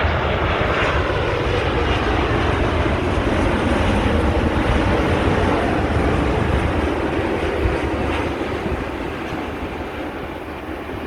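Jet engines of a wide-body airliner on final approach to land, passing close with loud, steady engine noise that fades over the last few seconds.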